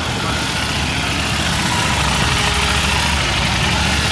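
Motorcycle engine running steadily at low revs, a continuous low rumble that grows slightly louder about a second in.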